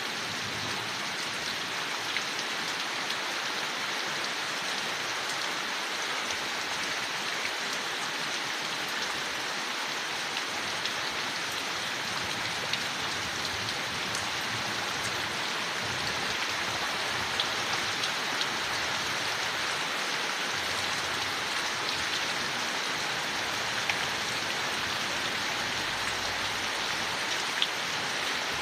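Steady rain falling on forest leaves, an even patter with occasional louder drops.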